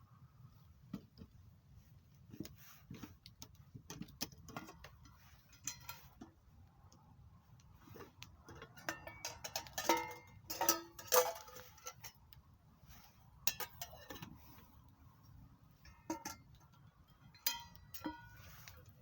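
Metal cookware and utensils clinking and knocking against each other. A burst of ringing clanks comes about halfway through, and another short one near the end.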